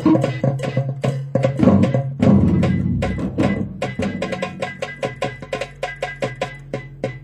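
Robotic orchestra playing percussive music: rapid drum and wood-block-like strikes over a steady low tone, growing quieter toward the end.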